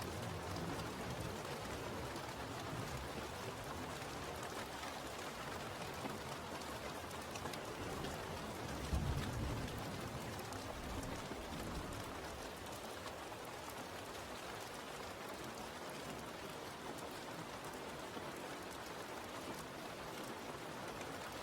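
Steady rainfall, an even hiss of rain on surfaces, with a short low rumble about nine seconds in.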